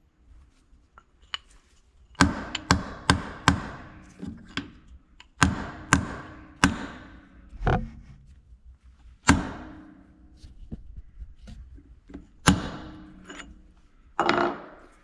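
Hammer striking a steel punch to drive the internals out of a Starrett magnetic base. About a dozen sharp metallic strikes come in irregular groups, each ringing briefly, with a longer knock near the end.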